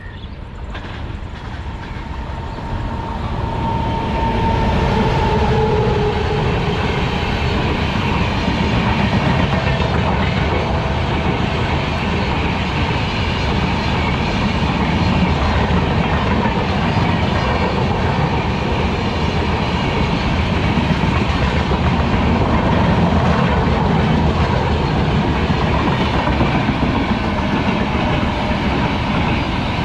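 Long express passenger train, led by a WAP-7 electric locomotive, passing at speed close by on the next track. Its coaches clatter over the rail joints in a steady rush of wheel noise that builds over the first few seconds and then holds.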